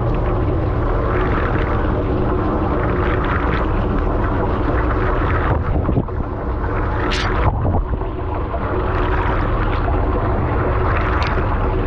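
Washing machine filling with water: a steady, loud rush and rumble of water pouring into the drum, with a few brief clicks.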